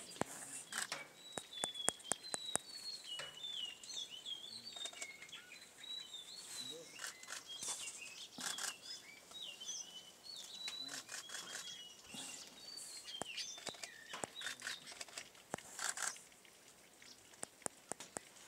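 Birds chirping in a busy run of short, quick notes that fade out a few seconds before the end, with frequent sharp little clicks or taps throughout.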